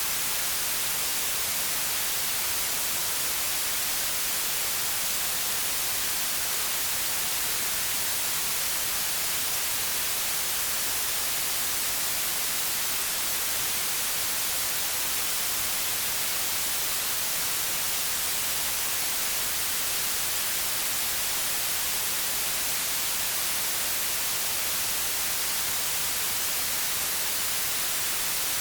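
White noise: a steady, even hiss, brightest in the high frequencies.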